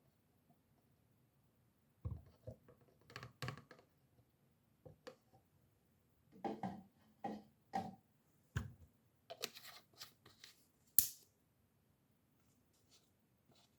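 Faint handling noises: scattered knocks, rustles and taps of objects being moved, with one sharp click late on.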